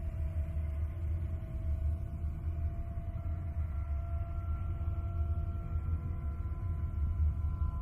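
Deep, continuous rumbling drone with faint steady tones layered above it; a new higher tone enters about three seconds in. An eerie ambient "space sound" track.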